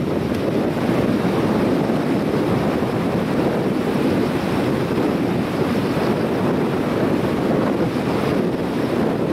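Flooded river rushing in a steady roar after a typhoon, with wind buffeting the microphone.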